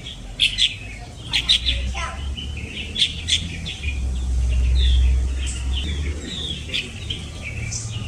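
Songbirds chirping in short, sharp calls that overlap and answer one another. A low rumble rises under them around the middle.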